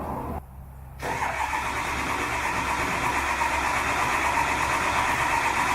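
Ford 7.3 L Powerstroke V8 turbo-diesel engine running steadily, with a steady whine on top. The sound drops away sharply for about half a second near the start, then comes back.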